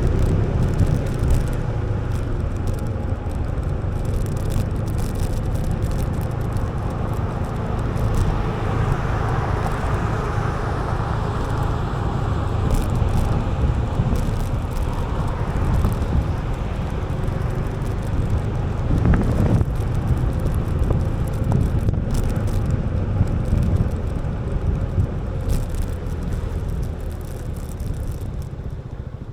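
2008 Yamaha Majesty 400cc scooter riding at town speed: steady low engine and road rumble with wind noise on the microphone, and a brief louder swell about two-thirds of the way through.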